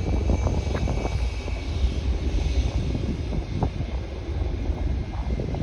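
Jet airliner's engines rumbling steadily as the plane passes, with a faint high whine above the rumble.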